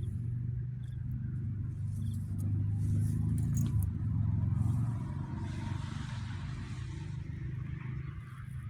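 Low, steady rumble of a car engine running, with a hiss that swells for a couple of seconds past the middle and fades.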